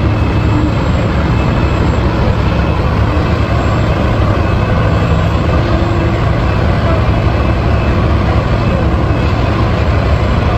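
Dump truck engine running with a steady low rumble.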